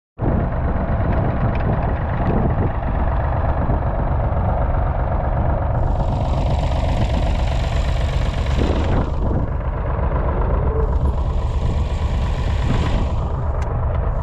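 1969 David Brown 780's 2.7-litre three-cylinder diesel engine running steadily. A rushing hiss swells over it twice, about six seconds in and again about ten seconds in.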